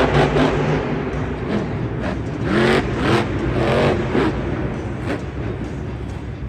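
Monster truck engine revving in short bursts, its pitch rising several times in quick succession over a steady engine rumble.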